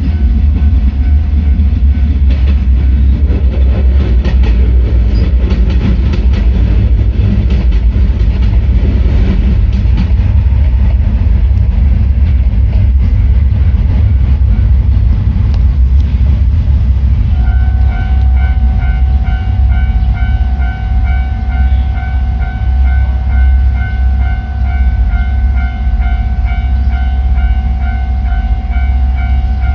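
A train running through a Japanese level crossing, its wheels clattering over the rail joints above a heavy low rumble. A bit over halfway through, the crossing's warning bell starts up, a steady repeated electronic clang.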